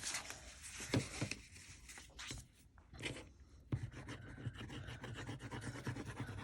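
Paper being handled and rubbed on a craft table: scattered small clicks and taps at first, then from a little under four seconds in a continuous scratchy rubbing of paper.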